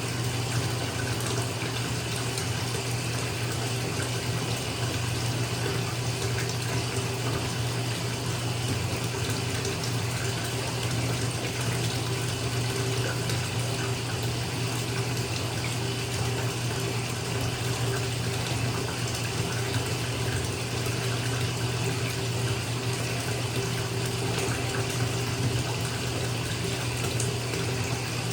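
Bathtub filling from the tap: water pouring steadily into a partly filled tub, with a deep, even rumble.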